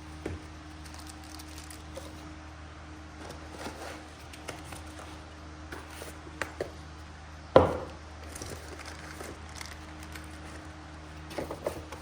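Light clicks and knocks of small parts and fittings being handled, with one louder knock about seven and a half seconds in, over a steady low hum.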